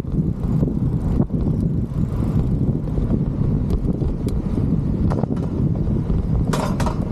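Wind buffeting the microphone on a moving bicycle, a steady low rumble with road noise and scattered light clicks and rattles, one brief brighter rattle near the end.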